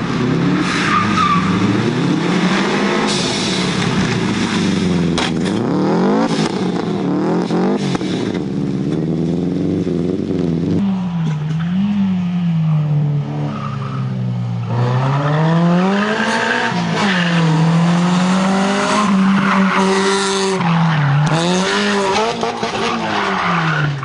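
Supercar engine revving hard, its pitch rising and falling again and again as it accelerates and lets off.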